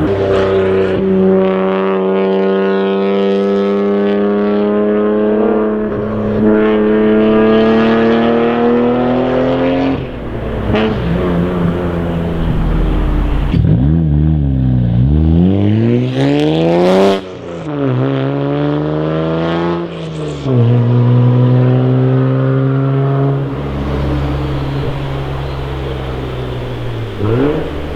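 Toyota JZX90 Mark II's 1JZ-GTE twin-turbo straight-six exhaust while driving. It holds a steady, slowly rising pull for about ten seconds, then eases off. After that it revs up steeply twice with a brief dip in between, like quick gear changes, and settles into a steady lower drone near the end.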